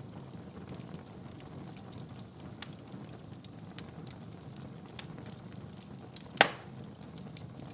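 Wood fire crackling in a fireplace: a steady low rush of flames with scattered small pops, and one much louder snap about six and a half seconds in.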